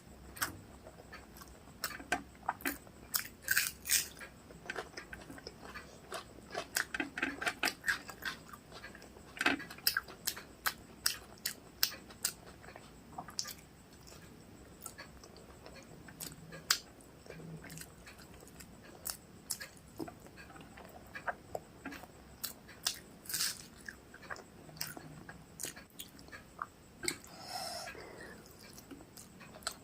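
Close-up eating sounds: chewing a mouthful of rice with chicken and egg curry, with many irregular wet mouth clicks and smacks, and one longer smeared sound near the end.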